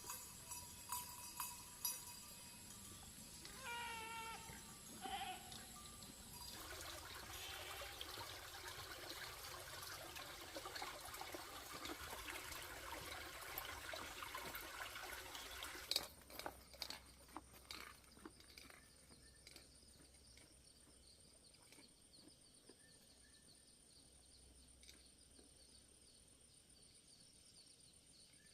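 A few light clicks, then a short animal call with a falling pitch. After that comes about ten seconds of steady hiss, ended by a single sharp knock and faint background noise.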